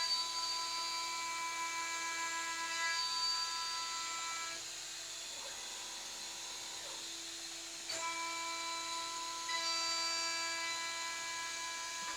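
High-speed spindle of a CNC milling machine whining at a steady pitch while milling aluminium. The whine drops away for about three seconds midway, then comes back.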